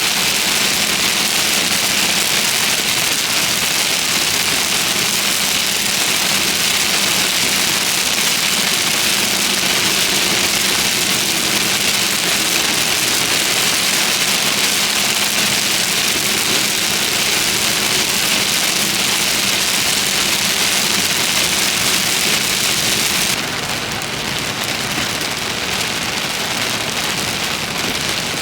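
Heavy rain on a car driving through a thunderstorm: a steady hiss with a low vehicle hum beneath. Near the end the hiss drops suddenly and gets quieter.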